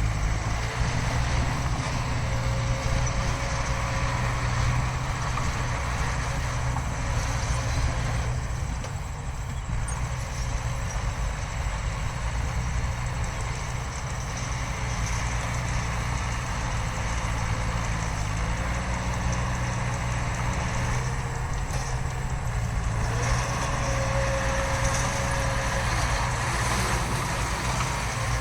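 Diesel engine of heavy earthmoving machinery running steadily, with a faint whine that comes and goes a few times.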